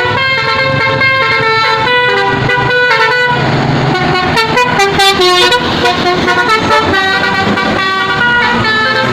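Multi-tone truck horn playing a tune of quickly changing notes over a running truck engine.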